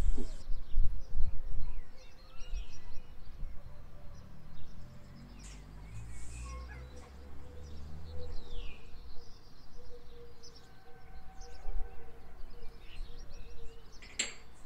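Birds chirping in the background, with low knocks in the first couple of seconds and a sharp clink of china cups set down on a counter near the end.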